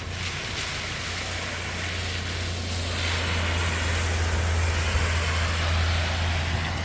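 A motor vehicle passing by: a steady low engine drone under a rushing noise that builds to its loudest about five seconds in, then eases off.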